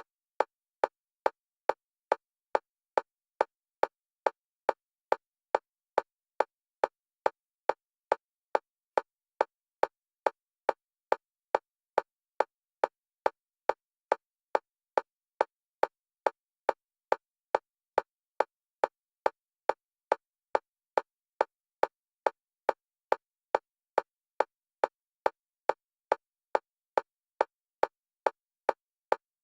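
Electronic metronome click at one pitch, repeating evenly about twice a second and alternating between the left and right stereo channels: bilateral stimulation for EMDR.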